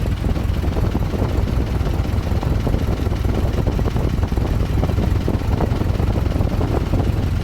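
Freshly rebuilt GAZ-MM four-cylinder flathead (side-valve) engine running steadily at idle.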